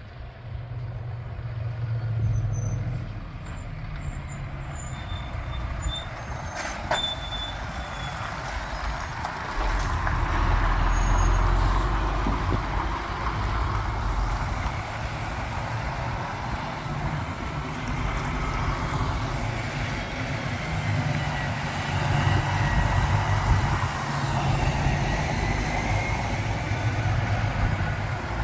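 Heavy lorries driving past with their diesel engines running. The low rumble swells about ten seconds in and again past twenty seconds as trucks go by.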